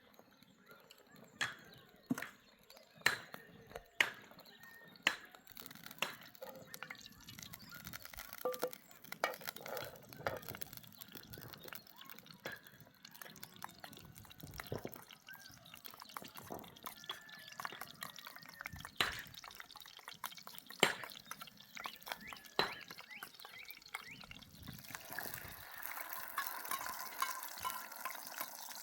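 Water dripping and splashing in separate sharp drops, at first about one a second and then more irregular, becoming a denser, steadier trickle near the end.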